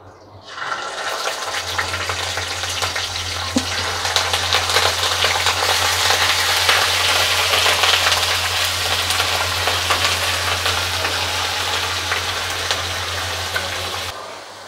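Onion paste sizzling and crackling as it hits hot oil in a wok and is stirred with a wooden spatula, with a steady low hum underneath. The sizzle starts about half a second in and cuts off suddenly near the end.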